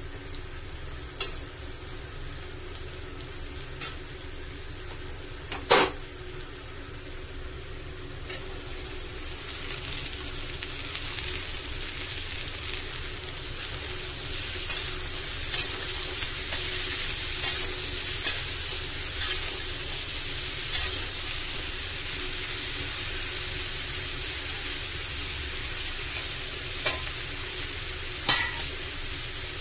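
Onions and then cubed pumpkin frying in oil in a metal kadai, a steady sizzle that grows louder about eight seconds in. A metal spatula stirs and clinks sharply against the pan now and then.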